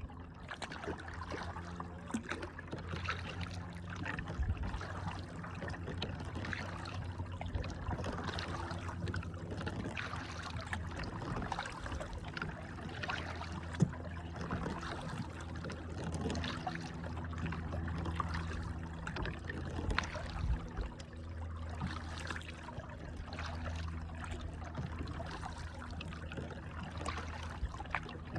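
Water trickling and splashing around a kayak as it is paddled, over a steady low rumble. One sharp knock stands out about halfway through.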